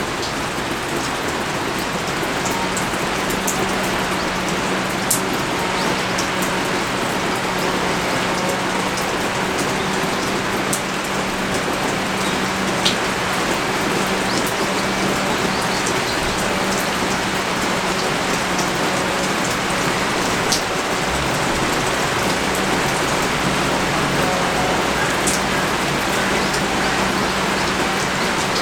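Heavy, steady rain pouring down, with sharp ticks of individual drops striking close by. A low steady hum sits underneath from about two seconds in.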